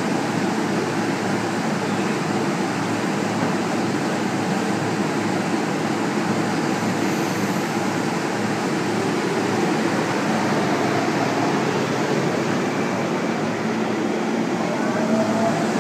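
JR East E231-500 series electric commuter train at a station platform: a steady hum while it stands, then near the end it pulls away and its traction motors start a rising whine.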